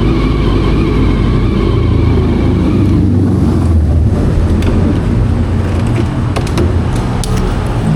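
Honda CBR400RR's carbureted inline-four engine running on the move, holding a steady note for about three seconds before it drops to a lower, rougher sound. A few sharp clicks come in the second half.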